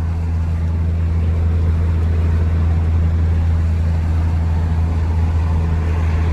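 Steady engine and road drone of a vehicle driving at an even speed, heard from inside the cabin: a constant low hum with road noise over it.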